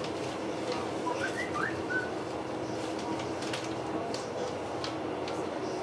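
Steady running noise inside a passenger train carriage, with a steady hum and frequent light clicks and rattles, and a few short high chirps about a second in.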